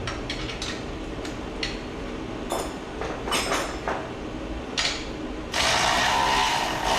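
Metal hand tools and parts clicking and clanking in short bursts, like a ratchet wrench working on bolts. About five and a half seconds in, a loud steady rushing noise starts and drowns them out.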